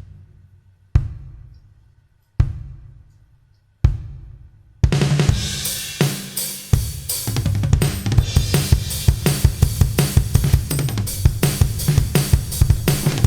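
Acoustic drum kit solo, recorded through an AKG Drum Set Session 1 microphone set: three single hits about a second and a half apart, each left to ring out, then about five seconds in a fast, continuous run of drumming.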